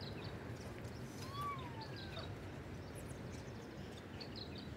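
Outdoor city ambience: a steady low hum with small birds chirping repeatedly in short high notes, and one brief gliding call about a second in.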